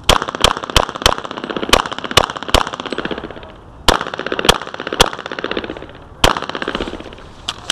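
Pistol shots fired rapidly during a timed IDPA course of fire: about a dozen sharp reports in quick pairs and strings, with short pauses of about a second between groups as the shooter moves between targets.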